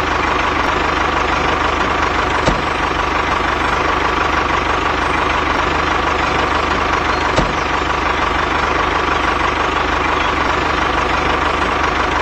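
Mini tractor's motor running steadily with a constant hum, and two short clicks, one about two and a half seconds in and one about seven seconds in.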